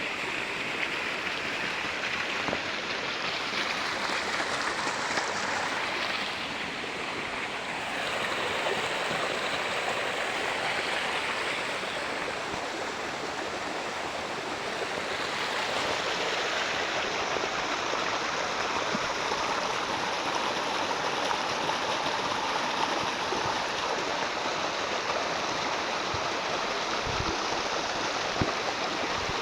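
Flowing water rushing steadily, its tone shifting a little now and then, with a couple of faint knocks near the end.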